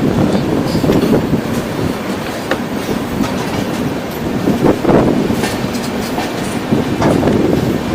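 Kamakhya–Puri Express passenger train running on the track: a steady rumble with the wheels clacking over rail joints, a few sharp clacks about halfway through.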